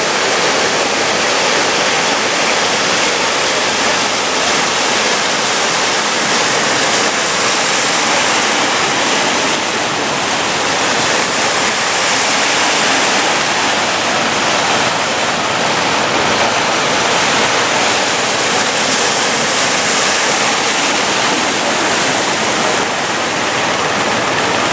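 Big ocean waves breaking: a loud, steady rush of surf with a few louder surges.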